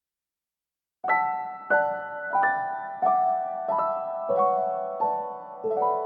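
Background piano music: gentle chords struck about every two-thirds of a second and left to ring, starting about a second in.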